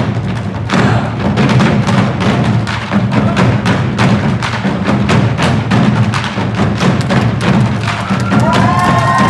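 Korean drum ensemble beating a fast, dense stream of drumstrokes. Near the end, whistles and cheers rise from the audience.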